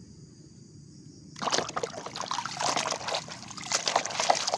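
Water splashing and sloshing as a muddy toy dump truck is rinsed and scrubbed by hand, starting about a second and a half in.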